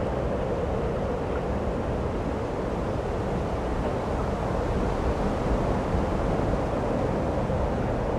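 Steady rush of snowstorm wind, an even noise that stays strongest in the low and middle range and does not change.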